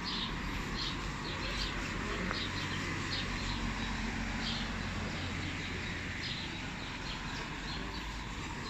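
Birds chirping in short, frequent calls, several a second, over a steady low hum of city traffic.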